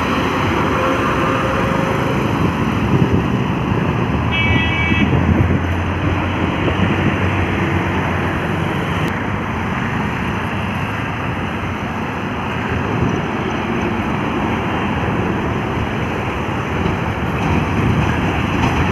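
Heavy loaded trucks driving past on a highway: a steady din of diesel engines and tyres, swelling as vehicles pass, with a short high-pitched tone about four seconds in.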